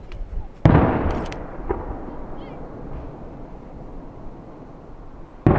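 Aerial firework shells bursting: a loud boom about a second in with a rolling, fading echo, a smaller crack a second later, and another loud boom near the end.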